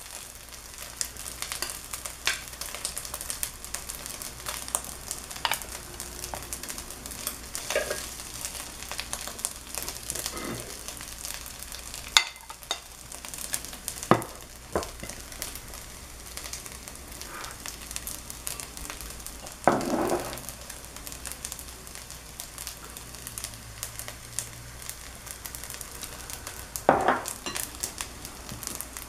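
Fried rice sizzling in a hot pan, a steady hiss full of fine crackles. Over it come a few knocks and scrapes of a ceramic bowl and plate being handled, the loudest about 20 seconds in and again near the end.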